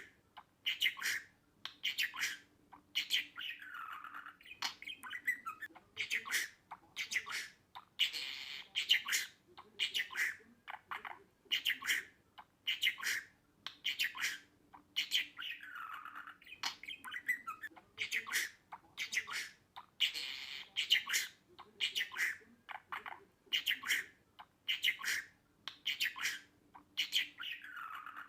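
Budgerigar chattering in quick chirps, squawks and warbles, with short gaps between bursts; the same stretch of calls comes round again about every twelve seconds.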